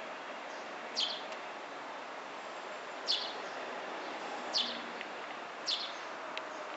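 A bird calling four times, each call a short, high note falling in pitch, spaced one to two seconds apart, over a steady background hiss.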